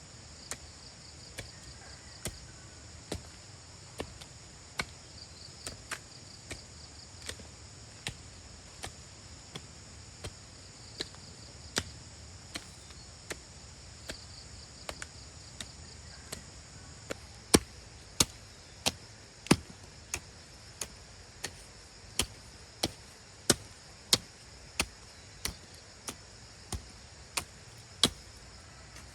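Steady chopping, sharp blade strokes about one and a half a second, which grow louder about halfway through. Insects trill steadily behind them.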